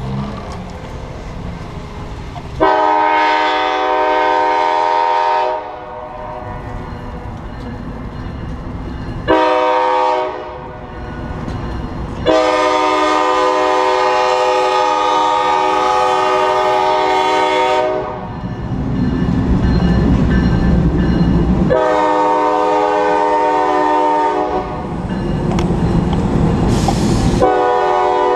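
Nathan K5LA five-chime air horn on a GE Dash 9 freight locomotive sounding a series of blasts: a long one, a short one, a very long one of nearly six seconds, another long one, and a fifth beginning near the end. Between the blasts the low rumble of the approaching train.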